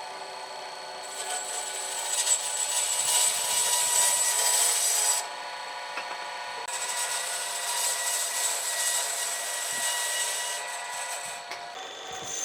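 An electric power tool spins up and works into wood: a steady motor whine under a continuous rasping. The rasping eases for about a second and a half a little after the middle, then picks up again.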